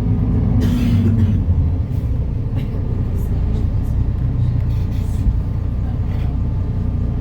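Diesel engine of a 2012 MAN Lion's City NL293 city bus, heard as a steady low rumble. Its pitched engine note drops away about a second in, while a short hiss of compressed air sounds.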